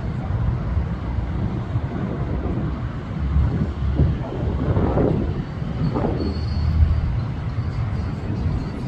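Jet airliner engines running, a steady low rumble that swells a little partway through.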